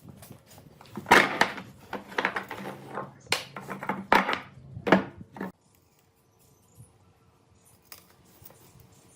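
Workshop handwork noises: a run of short scraping and clattering strokes for about five seconds, then faint scattered clicks.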